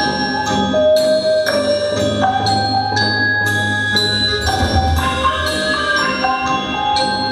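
Orchestral music: bell-like mallet percussion plays a slow melody, a new ringing note struck about every half second to a second, over a held low bass.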